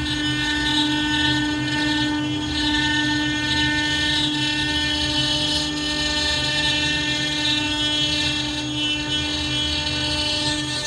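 CNC router carving stone: a steady spindle whine with a high hissing cutting noise that swells and fades as the bit works the stone.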